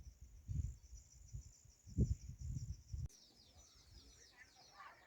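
A high, steady insect trill, with a few low bumps under it, breaks off abruptly about three seconds in. Small birds chirping in quick descending notes take its place.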